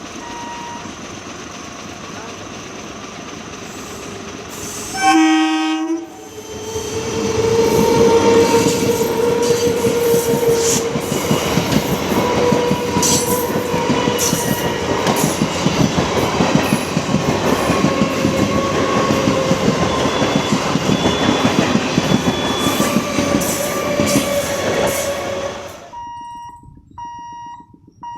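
ALCO WDM3D diesel locomotive gives a loud horn blast about five seconds in, then its train rushes past for about twenty seconds, wheels clattering rapidly over the rail joints. The passing sound stops suddenly near the end, and electronic beeping follows.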